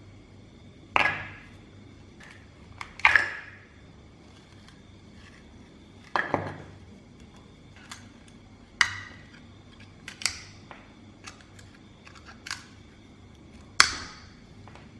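A series of sharp knocks at irregular spacing, about eight loud ones with smaller ticks between, each ringing briefly.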